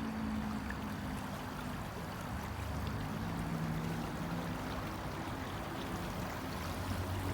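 Steady rushing of a flowing stream, with a low, uneven rumble underneath.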